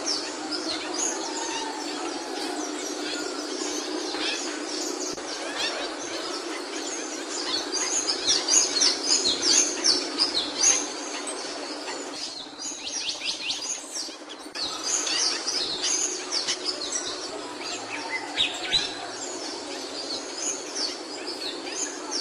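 Capuchino songbird singing: a fast run of high chirps and twitters over a steady noise bed, with a pause of about two seconds past the middle before the song resumes.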